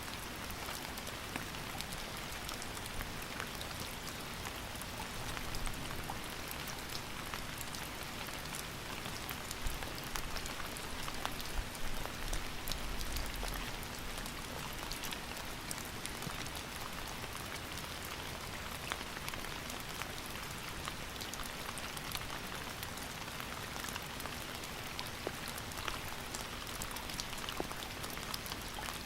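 Steady rain falling, an even hiss dotted with many individual drops hitting a surface, a few of them louder around the middle.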